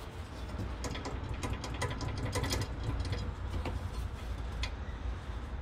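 Loose bolt in a car's front suspension worked by hand, giving an irregular run of small metal clicks and knocks. The bolt was left loose after front-end work and is the source of the noise from the front end.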